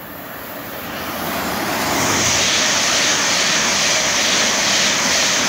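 Express passenger train passing through the station at speed: a loud rush of wheel and air noise that builds over the first two seconds, then holds steady.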